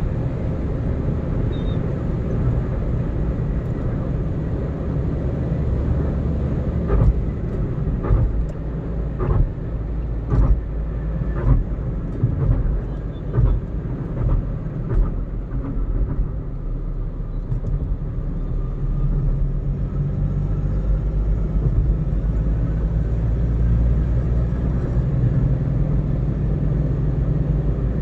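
Car driving at road speed: a steady low rumble of engine and tyre noise, with a run of short thumps about a second apart in the middle stretch.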